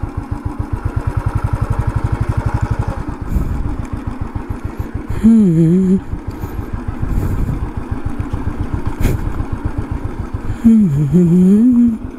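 Royal Enfield motorcycle engine idling with a fast, even beat. Two louder pitched sounds that waver up and down rise over it, one in the middle and one near the end.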